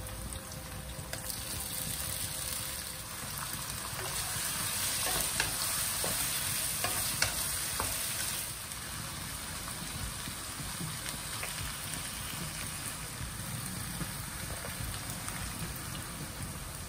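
Chopped tomatoes, onions and dried red chillies sizzling in hot oil in a nonstick wok, stirred with a wooden spatula. The sizzle is louder in the first half, with a few light knocks and scrapes of the spatula against the pan, then settles to a steadier, quieter sizzle.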